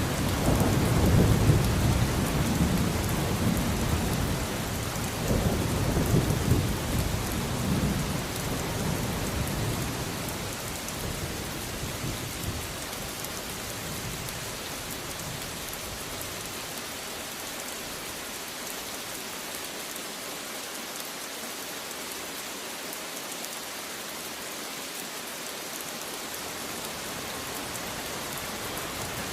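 Steady rainfall with thunder rumbling low and swelling twice in the first third, then fading away, leaving only the even hiss of the rain.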